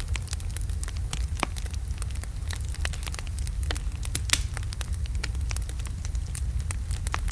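Wood logs burning in a fireplace: a steady low rumble of flame with frequent irregular crackles and pops, one sharper pop about four seconds in.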